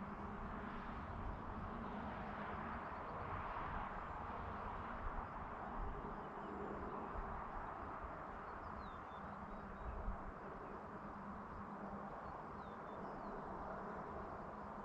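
Evening rural outdoor ambience: a steady hiss and low hum, with a few faint, short, high bird chirps about eight and a half and twelve and a half seconds in.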